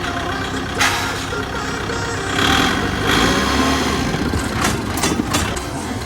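Kubota tractor's diesel engine running hard at full revs in top gear. The noise swells about two seconds in, with a sharp knock early on and several sharp clacks near the end.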